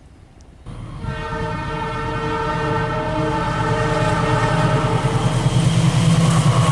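Diesel locomotive horn sounding in one long multi-tone blast that starts suddenly about a second in. Under it, the low throb of the approaching train grows steadily louder.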